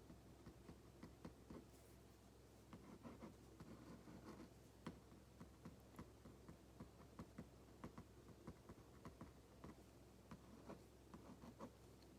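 Ballpoint pen writing on paper: faint, irregular scratching strokes and small taps.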